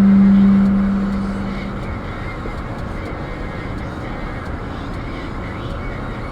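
Steady low droning hum from a 2013 Ford Police Interceptor Utility 3.7 AWD while driving, a single tone that is loudest at first and fades out about a second and a half in, leaving steady road noise. The cause of the drone is unknown to the owner.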